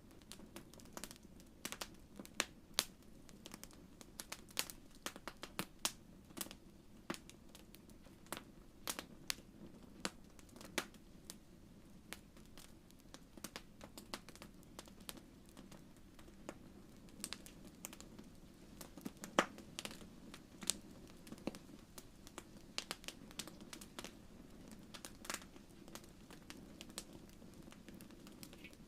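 Wood fire in a fireplace crackling, with irregular sharp pops and snaps over a low, steady rumble of the flames; one pop is louder, about two-thirds of the way through.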